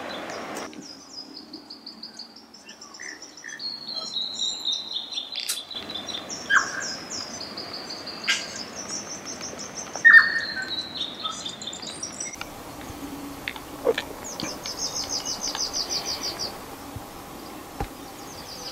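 Small birds singing: many repeated series of high chirping notes, some stepping down in pitch. A few short, sharp clicks stand out, the loudest about ten seconds in.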